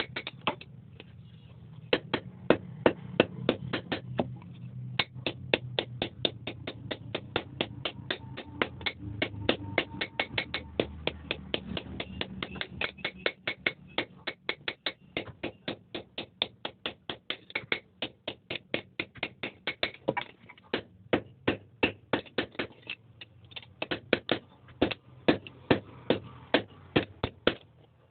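Forging hammer striking iron on an anvil in quick, even blows, about three to four a second, with short pauses between runs.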